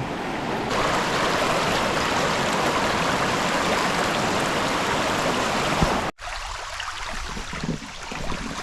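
Flood-swollen creek rushing steadily, a full, even wash of moving water. About six seconds in it cuts off suddenly and gives way to quieter flowing water with a few faint splashes.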